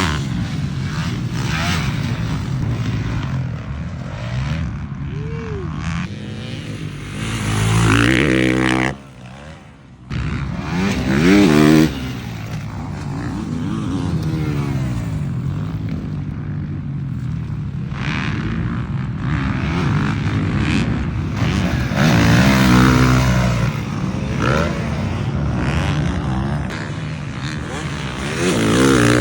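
Dirt bikes riding a motocross track, engines revving up and down as they pass, with a brief sudden drop about nine seconds in.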